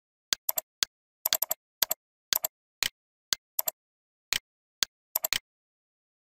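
Sharp clicks of a computer keyboard and mouse, about twenty in irregular single, double and triple groups, with dead silence between them; they stop a little past five seconds in.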